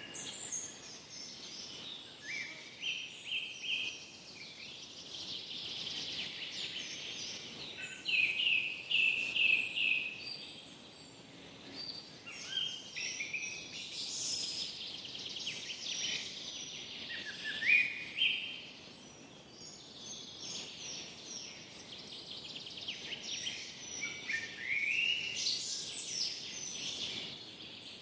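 Forest birdsong: several birds singing in bouts of chirps, trills and quick notes, over a faint steady background hiss.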